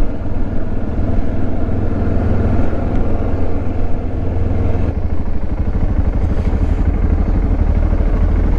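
Motorcycle engine running steadily while riding along, a dense even engine drone with no change in pace.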